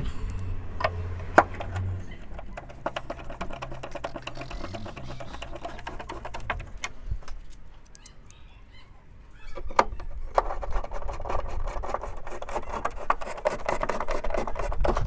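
Clicks, knocks and scraping of metal fittings and tools as the van's side step is bolted back into place, turning into a louder, dense run of rapid ticking and rubbing from about nine or ten seconds in.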